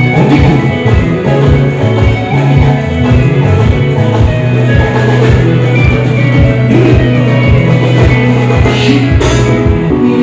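Loud live band music with a steady drum beat, bass and guitar, played through a concert sound system; the music stops abruptly at the very end.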